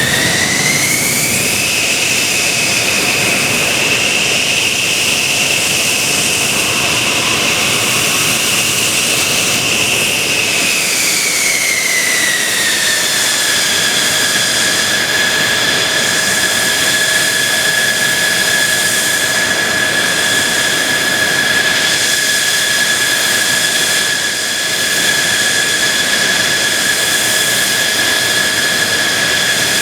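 Jet engine of a Mitsubishi F-2B fighter running with a loud, steady whine. Its pitch rises about a second in, holds for some ten seconds, then slides back down and settles, as the throttle is advanced and then eased back.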